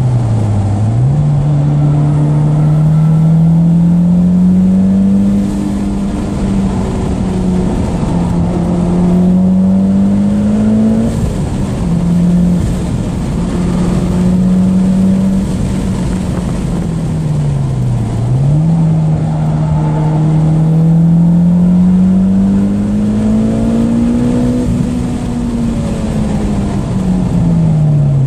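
Mitsubishi Lancer Evolution X's turbocharged four-cylinder engine heard from inside the cabin while lapping a track, its pitch climbing under acceleration and dropping back as the car slows for corners, several times over. Steady road and wind noise runs underneath.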